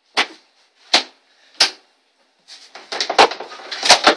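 Three sharp knocks about half a second apart, then a quick clatter of bumps and bangs, the loudest near the end, as a small cupboard-like door is knocked and shut.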